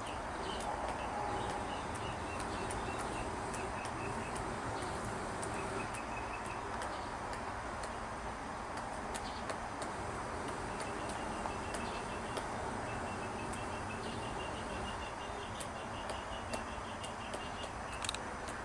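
Chicken pecking at rice: irregular sharp ticks of its beak striking the feeding surface, over a steady background hiss. A faint high chirp repeats in quick even runs for a few seconds near the start and again through the second half.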